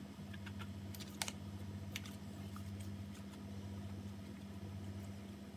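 Light clicks and soft scrapes of a utensil spreading mayonnaise on bread slices, over a steady low hum.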